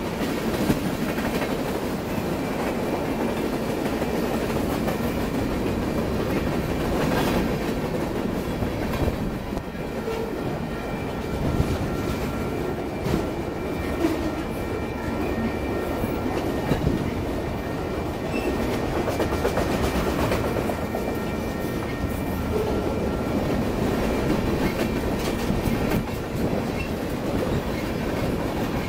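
Freight cars rolling past at trackside: a steady rumble and clatter of steel wheels over the rail, with scattered sharper clanks and a faint high squeal running underneath.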